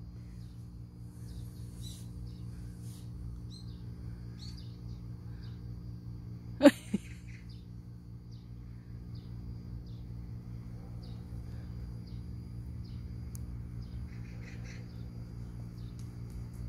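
Small birds chirping on and off over a steady low hum, with one short, loud cry about seven seconds in.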